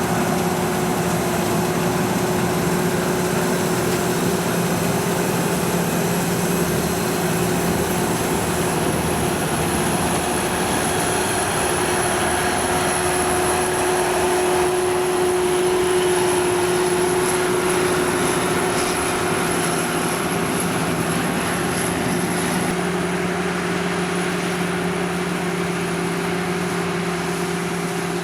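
Sakpattana KM-D#1 rice combine harvester running steadily while harvesting paddy: a constant engine drone over a dense mechanical rush, with a thin high whine on top.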